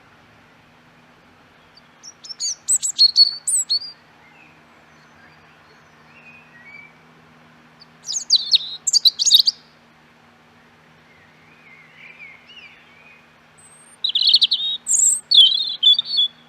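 Songbirds singing: three bursts of quick, high chirping phrases about six seconds apart, with fainter, lower calls in between.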